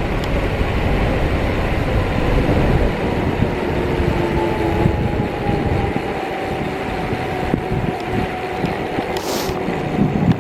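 Wind buffeting the microphone with rumbling road noise from a moving bicycle, and a faint humming tone that slowly falls in pitch through the middle.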